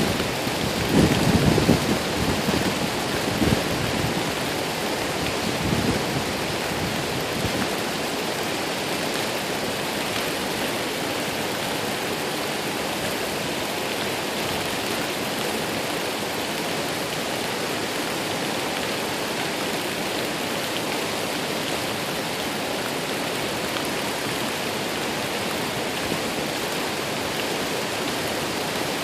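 Waterfall rushing, a steady even hiss of falling water. Low gusty rumbles come and go in the first several seconds, then the sound stays constant.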